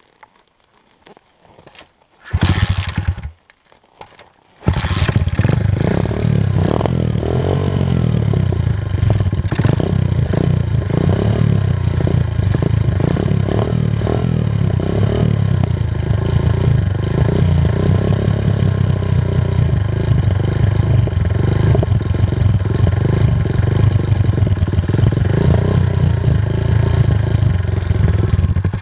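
Pit bike engine catching for about a second and dying, then starting about two seconds later and running on steadily, a little unevenly, to the end.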